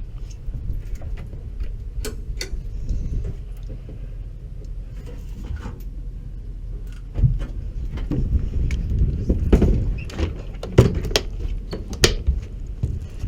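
Low wind rumble on the microphone with scattered clicks and knocks, like latches and panels being handled. The knocks become busier and louder about halfway through.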